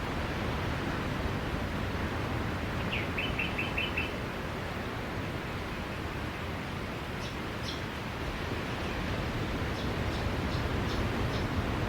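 Steady wash of sea waves on a beach, with a small bird chirping over it. About three seconds in there is a quick run of about six chirps, near the middle two sharper, higher notes, and near the end another short run of high chirps.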